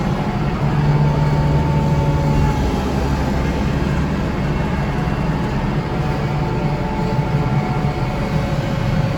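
Kubota diesel tractor with a front-mounted snow blower running: a steady low engine drone, a little stronger for the first two seconds or so.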